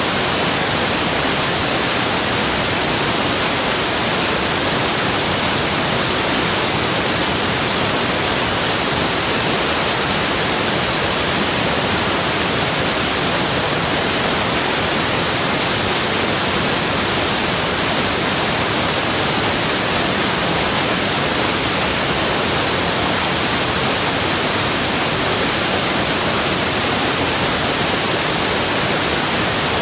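Steady, unbroken rush of falling water, an even hiss with no changes.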